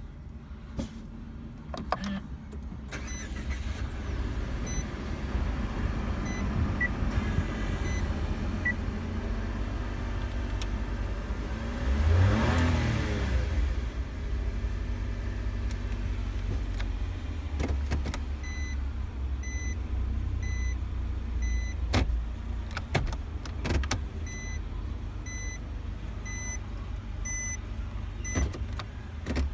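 Nissan Dayz's 660 cc three-cylinder engine idling, with one short rev about twelve seconds in. A repeating electronic beep sounds in two runs, and there are a few sharp clicks.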